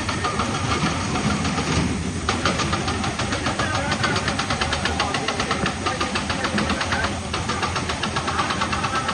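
Heavy quarry machinery running: a steady low engine sound with a rapid, even knocking of about nine knocks a second, which drops out briefly twice.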